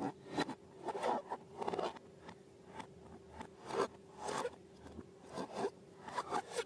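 Slime being worked by hand: irregular short scraping and rustling strokes, a few a second in clusters, over a faint steady hum.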